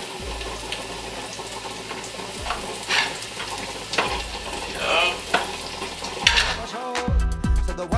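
Sliced onions and green onions sizzling as they sauté in oil in a frying pan, with a utensil knocking and scraping against the pan several times as they are stirred. Background music comes in about a second before the end.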